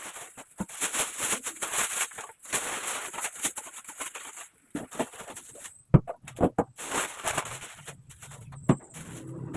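Plastic grocery bags rustling and crinkling as market shopping is unpacked. A few sharp knocks of items being set down come about six seconds in and again near the end.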